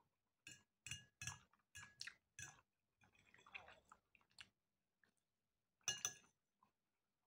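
Faint close-up chewing of soft macaroni and fried sausage: a run of short wet mouth smacks about twice a second, then softer chewing. About six seconds in, a sharper clink, the loudest sound, of the metal fork against the plate.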